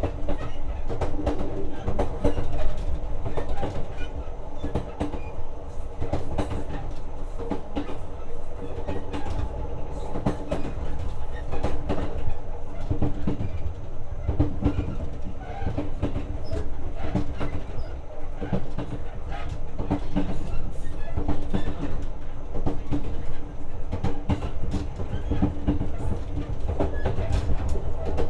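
Inside a JR 125 series electric railcar running at speed: a steady low rumble from the wheels and track, with irregular clicks and knocks from the rail joints and a steady hum over it.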